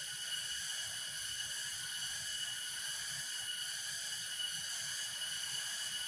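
Steady, high-pitched insect chorus that holds evenly throughout.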